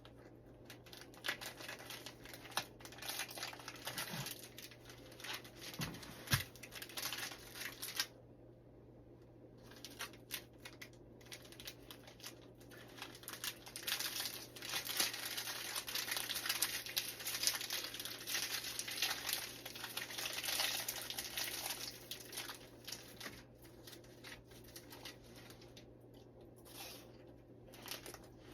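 Crinkling, rustling noise full of small crackles, running in long stretches with a brief pause about eight seconds in.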